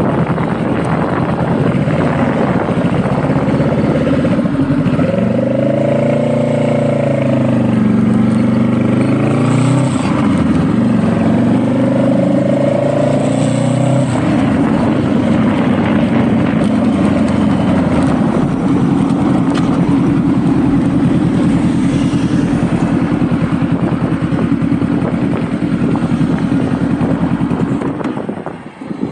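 Honda Rebel motorcycle engine running while riding, a steady engine note. From about five seconds in, the pitch rises and falls several times as the throttle and speed change, then it settles. The engine note drops away just before the end.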